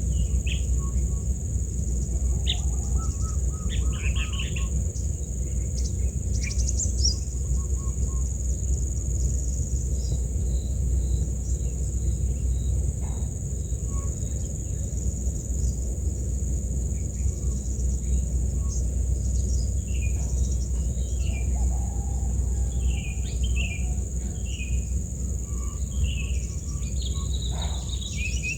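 Insects buzz in a steady high drone, with short bird chirps scattered through and bunching up near the end. Partway through there is a run of evenly spaced high notes. A steady low rumble lies underneath.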